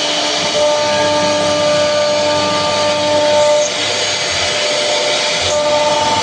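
CNC router cutting into a wooden safety-door panel, running steadily with a held whine over the cutting noise.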